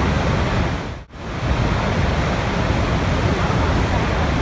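Steady rushing water, dense and even, that fades out briefly about a second in and comes straight back.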